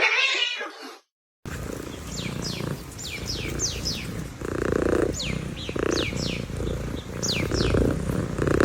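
A cat purring close to the microphone, a steady buzzing that swells every second or so with its breathing. Over it come many quick, high, falling chirps from small birds. In the first second, before a short cut to silence, a cat's meow ends.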